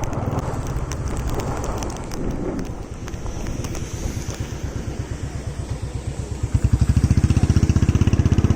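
Motorcycle engine running at low speed, its exhaust beat pulsing evenly, then opening up and getting louder about six and a half seconds in as the bike accelerates. Wind buffets the microphone in the first few seconds.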